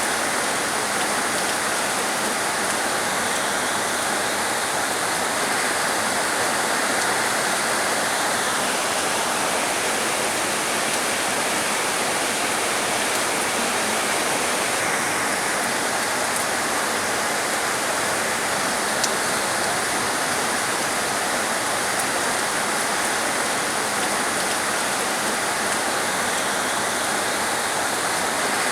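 Heavy rain falling steadily, a dense even hiss of water with no let-up; a single faint tick sounds about 19 seconds in.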